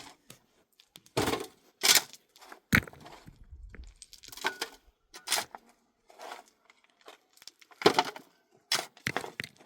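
A run of about ten sharp, irregularly spaced cracks and snaps with short pauses between them, the loudest about two seconds in and near the end.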